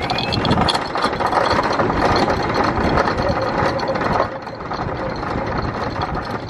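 Anchor chain rattling out over the catamaran's windlass as the anchor is let go, a fast metallic clatter that stops about four seconds in, with the engines running in gear underneath.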